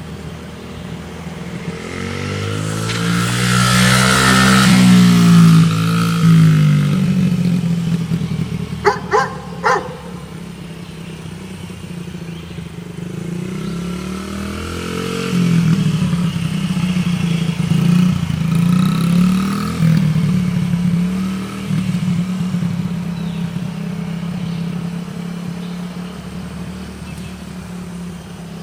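Small dirt bike engine revving and riding around, its pitch rising and falling as the throttle opens and closes, loudest twice as it comes close. A quick run of sharp clicks about nine seconds in.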